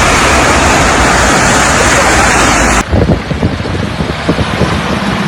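Blizzard wind blasting the microphone in a loud, steady roar. Almost three seconds in it cuts off abruptly to a quieter low rumble with scattered thumps.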